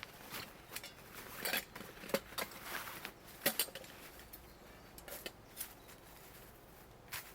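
Irregular rustling and light crackling: about a dozen short scuffs at uneven intervals, a few louder ones in the first half.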